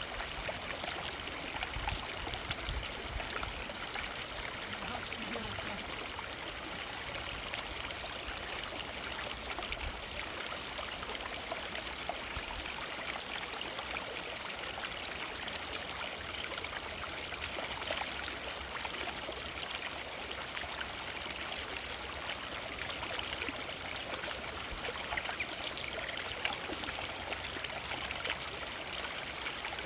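Forest river flowing steadily over rocks, a continuous rushing and trickling of water.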